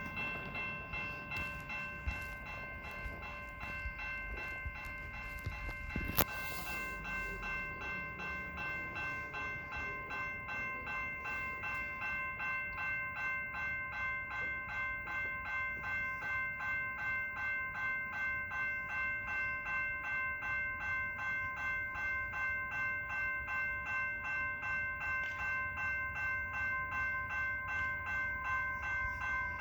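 Level-crossing warning bell ringing steadily, about one and a half strikes a second. A low rumble builds in the last several seconds as a train approaches.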